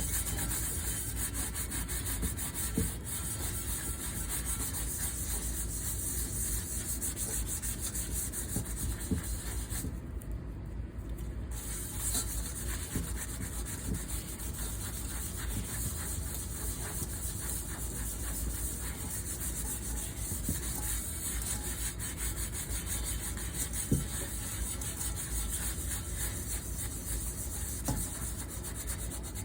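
Cookware being scrubbed by hand: a continuous rasping rub, with a few light knocks and a short easing-off about ten seconds in.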